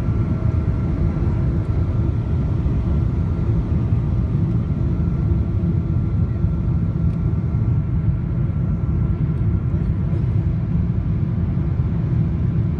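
Steady low rumble of a Boeing 777-200ER's Pratt & Whitney PW4090 engines and rushing air heard inside the passenger cabin, with a faint steady whine above it.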